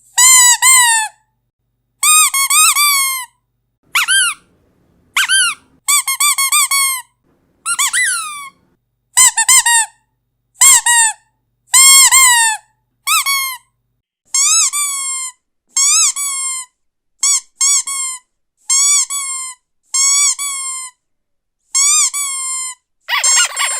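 A squeaky dog toy squeezed over and over, in quick runs of one to four squeaks with short silences between them. Each squeak rises and falls in pitch, and the last few near the end are harsher.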